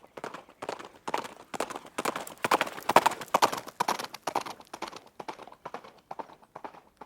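Rhythmic clip-clop of hooves, several knocks a second, growing louder to a peak about halfway through and then fading, as if passing by.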